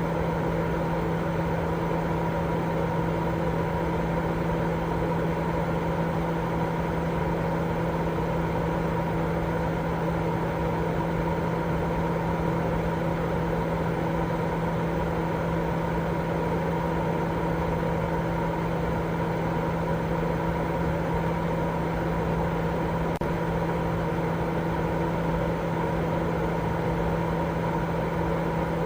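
Continuous baby-sleep white noise: an unchanging hiss with a steady low hum running through it.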